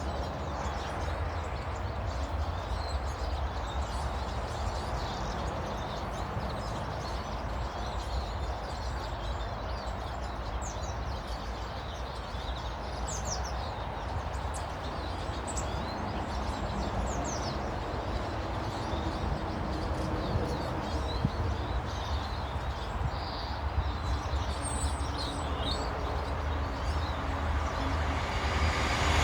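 Birds chirping in short high calls, scattered and more frequent in the second half, over a steady background rumble and hiss.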